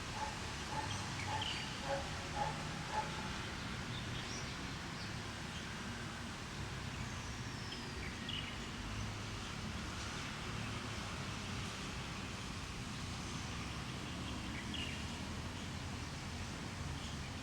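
Birds calling and chirping here and there over a steady background hiss and low hum, with a short run of repeated lower notes in the first few seconds.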